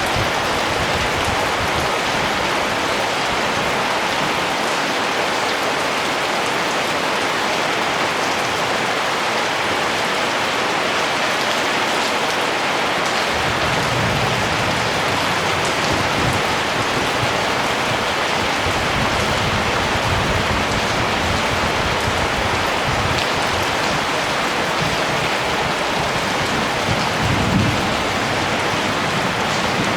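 Steady rain falling, a dense, even hiss of drops, with a few brief low rumbles in the second half.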